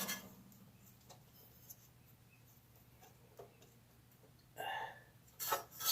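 Hand tools working on a lawn tractor: mostly quiet with a few faint scattered clicks, then a short sound and a louder sharp noise near the end.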